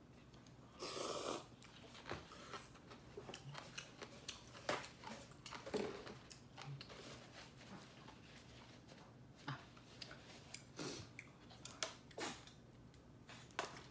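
Close mouth sounds of someone eating: chewing with scattered short clicks and smacks, and one longer noisy burst about a second in.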